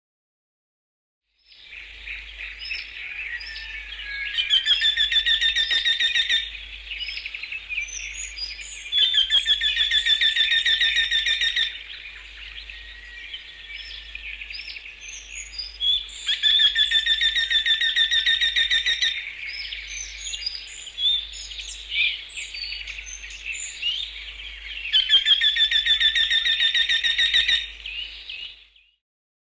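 Songbirds chirping and chattering steadily, with one bird singing a long, fast, even trill four times, a few seconds apart. It starts after a second and a half of silence.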